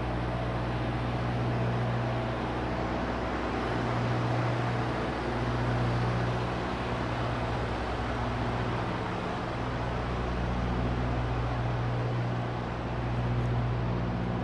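Semi-truck's diesel engine idling with a steady low hum.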